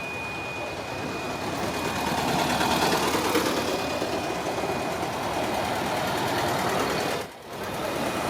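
Motor vehicle traffic passing on a road, its engine and tyre noise swelling about a second in and staying up, with a brief drop near the end. A faint, steady high tone fades out after the first two seconds.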